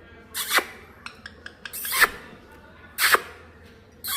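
Parrot giving short raspy, hissing squawks, four times about a second apart, with faint clicks between.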